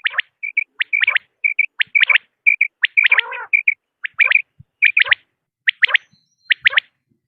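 Common quail calling: short, sharp high calls in quick clusters of two or three, with brief softer notes between, repeating about once or twice a second.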